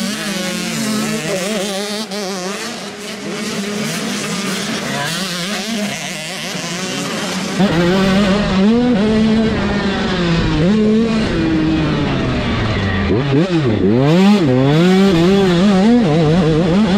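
Small two-stroke motocross bikes racing, their engines revving up and down in pitch as they go through the gears. It gets louder about eight seconds in as a bike comes close.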